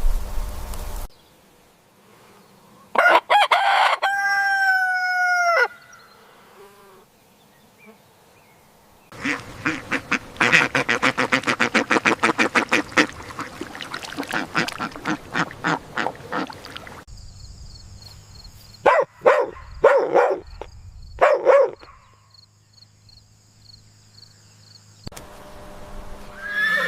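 Domestic fowl calling in several separate recordings: a long, held call about three seconds in, a fast run of repeated calls, then a few short calls. Near the end a horse begins to whinny.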